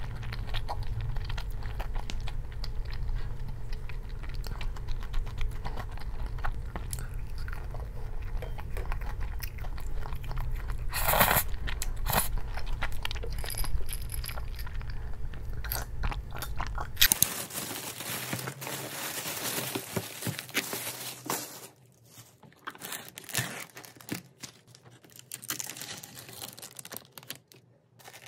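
A person chewing and crunching food, with many short crunchy clicks. A low background hum under it cuts off suddenly a little past halfway, and the rest is quieter with only scattered clicks.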